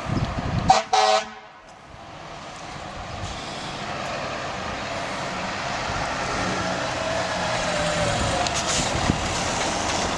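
Two short blasts of a fire truck's horn about a second in, then truck engine noise building steadily.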